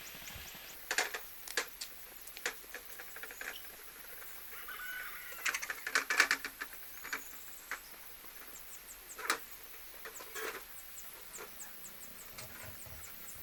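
Scattered sharp taps and clicks at irregular intervals, several close together around the middle.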